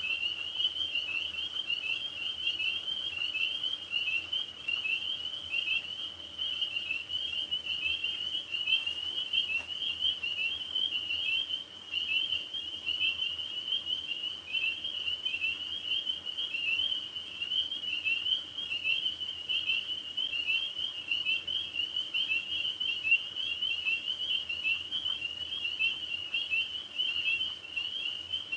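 A chorus of tree frogs calling without a break, many overlapping high, rapidly repeated chirping calls.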